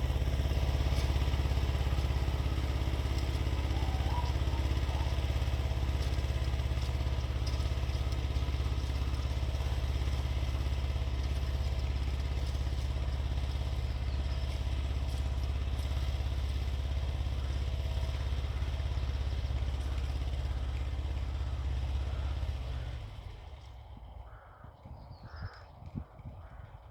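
Xingtai 220 mini-tractor's diesel engine running steadily, dropping away sharply about four seconds before the end. A few crow caws follow in the quieter stretch.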